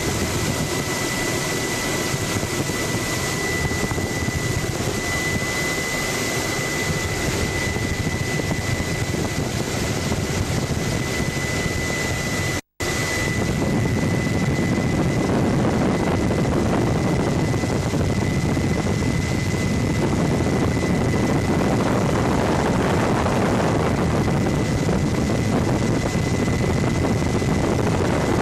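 Helicopter running steadily in flight, heard as a dense drone with a steady high whine. The sound drops out for a moment about halfway, then resumes slightly louder.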